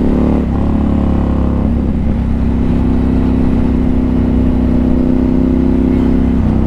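Motorcycle engine running at road speed, heard from inside the rider's helmet, its note shifting about half a second in and then holding steady.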